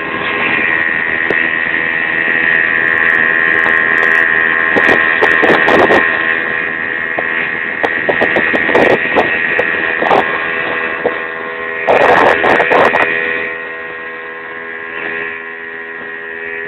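Speedboat's outboard motor running steadily at speed, a constant drone with a high whine. Several short rushes of wind and water noise break over it, the loudest about twelve seconds in, and it grows a little quieter near the end.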